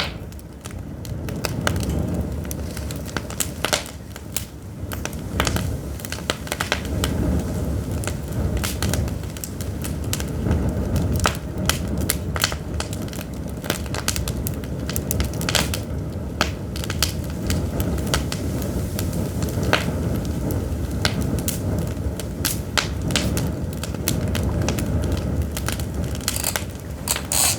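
Pine firewood burning, crackling and popping with many irregular sharp snaps over a steady low rush.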